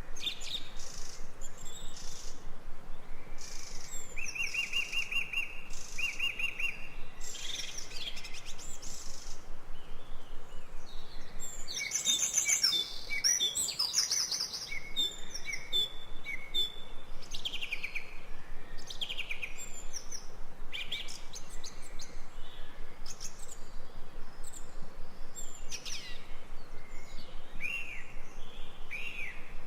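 Jungle birds calling: many short chirps and falling whistled notes, with a trill of fast repeated notes from about four to seven seconds in and a busy burst of overlapping calls about halfway through.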